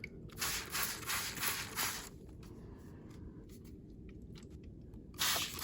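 Water sprayed from a bottle onto a landscape model as rain, in a run of short hissing squirts, then one more near the end.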